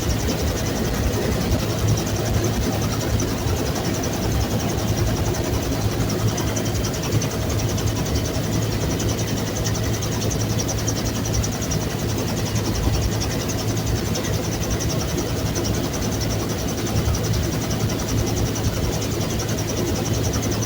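Bell UH-1 Huey helicopter running: a loud, steady noise of turbine and rotor with a strong low hum and a fine, rapid, even beat.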